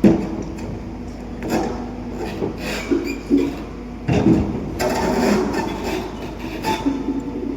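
Excavator running while handling granite blocks, with several heavy clunks and knocks over its steady running.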